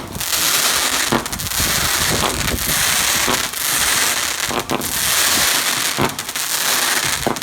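Fireworks going off: a string of sharp bangs about once a second over continuous dense crackling.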